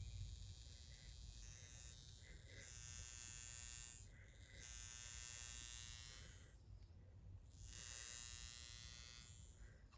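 High frequency facial wand with a glass comb electrode buzzing at a low setting as it is worked through the hair on the scalp. A faint electrical hiss comes and goes in stretches of about two seconds over a steady hum.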